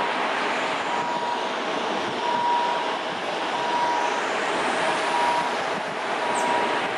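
Kiha 183 diesel railcar train running by with a steady rumble and rush of noise, while a two-note electronic warning beep repeats about every second and a third.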